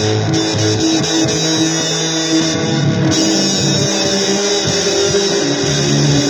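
Guitar playing blues, held notes and chords shifting every second or so over a steady wash of hiss.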